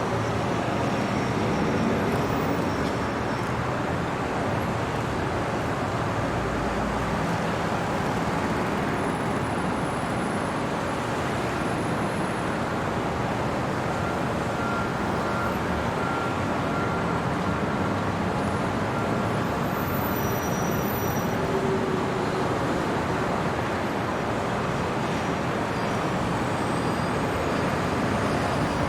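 Steady city traffic noise at night: an even wash of passing vehicles and road noise, with a few faint brief high tones over it.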